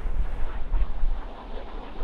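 Strong wind buffeting the microphone in gusts, over the rush of surf; the gusts are heaviest in the first second and ease off near the end.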